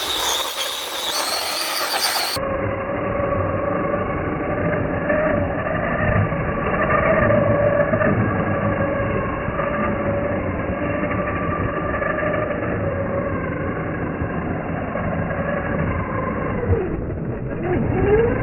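Brushless electric motor of a Redcat Volcano 1/10 RC truck, whining steadily as it drives. Near the end the pitch drops briefly, then climbs again as it speeds back up.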